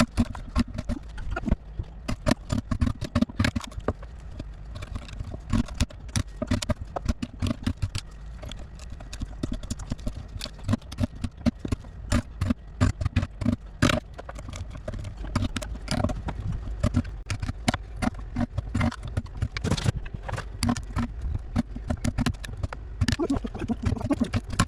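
Chisel being struck repeatedly into a rotten wooden trunk: sharp, irregular knocks, several a second, with short pauses.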